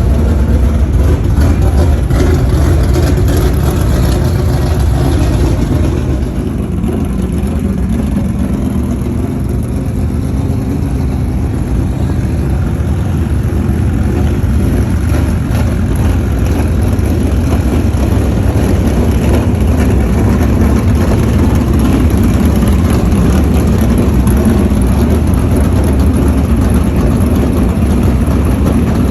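A group of dirt modified race cars with V8 engines running laps on the track, their engines loud and continuous with a slight dip and swell as the cars pass around the track.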